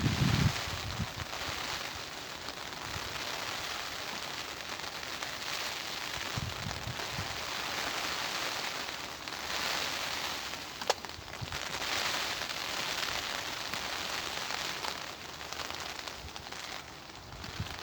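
Steady rain pattering, swelling and easing with the wind, with low buffets of wind on the microphone near the start and about seven seconds in. One sharp click stands out about eleven seconds in.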